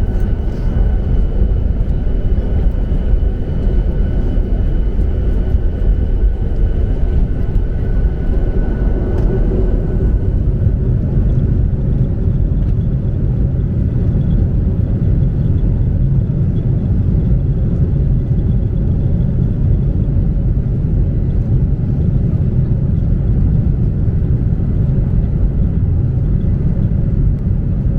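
Steady, loud engine rumble of a passenger jet airliner heard from inside the cabin, with a faint high whine that fades out about ten seconds in.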